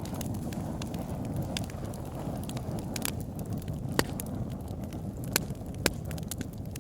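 Wood fire crackling in a fireplace: a steady low rumble of burning logs with scattered sharp pops, the loudest about four seconds in and twice more shortly after.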